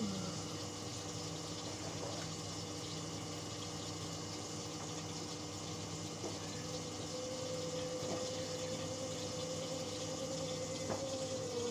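Indesit washing machine running with water flowing through it over a steady pump hum. A faint held tone joins about halfway through and sags in pitch near the end.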